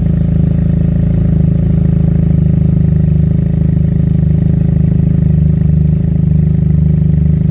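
Benelli TNT 300's parallel-twin engine idling steadily through an Akrapovič exhaust, held low and not revved while it warms up from a cold start.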